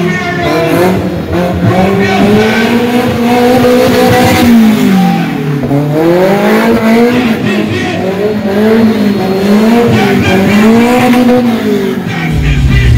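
A car engine revved hard under wheelspin, its pitch held high and swinging up and down again and again, with two deeper drops in revs around the middle.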